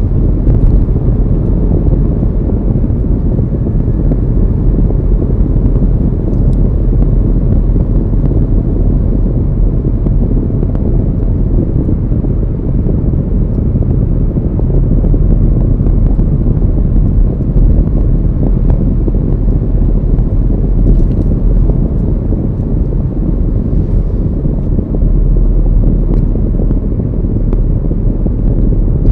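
Steady low rumble of a car driving along a road, road and wind noise with no distinct events.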